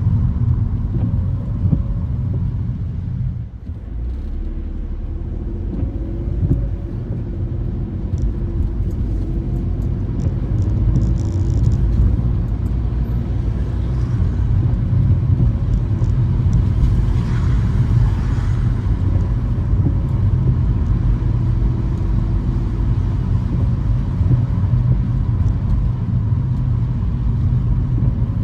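Car driving on wet city streets in the rain: a steady low road and engine rumble. Brief passages of tyre hiss come and go, and there is a short drop in level about three and a half seconds in.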